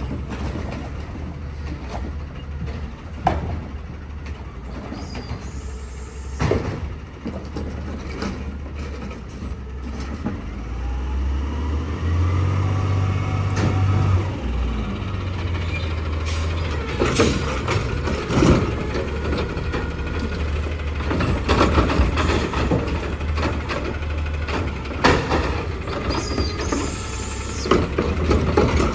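Diesel garbage truck running, its engine revving up around the middle, with a string of sharp clanks and knocks in the second half and a short air-brake hiss near the end.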